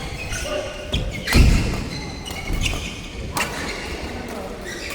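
Sharp strikes and heavy footfalls of a doubles rally on an indoor court, echoing in the hall, with the loudest thump about a second and a half in.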